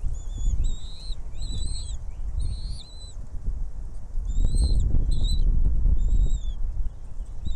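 A small bird chirping: about eight short, high, arching chirps, unevenly spaced, with a longer gap near the middle. Under them runs a loud low rumble.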